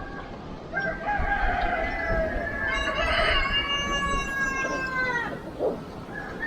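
Rooster crowing once, a long cock-a-doodle-doo that starts about a second in and bends down at the end.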